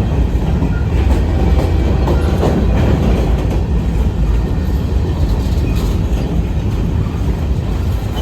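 Train rolling past with a steady, loud, deep rumble of wheels on rail and a few clicks.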